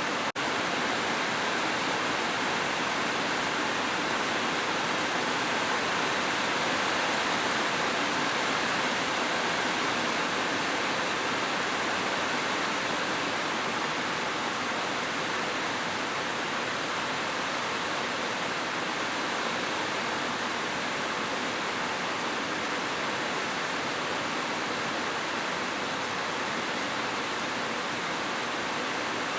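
Heavy rain falling steadily as an even hiss, with a momentary dropout about half a second in.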